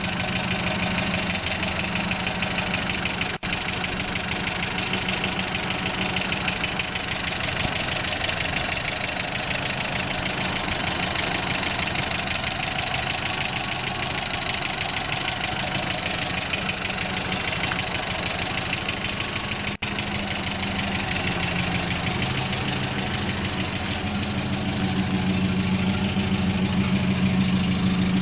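GAZ-24-10 Volga's inline-four petrol engine running steadily at idle, its level rising slightly near the end.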